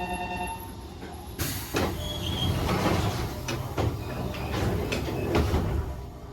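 Nankai 6000 series electric train heard from on board at a station stop: steady tones for about the first second and a half, then a sudden long hiss with a string of knocks and clatters over a low rumble, dying down near the end.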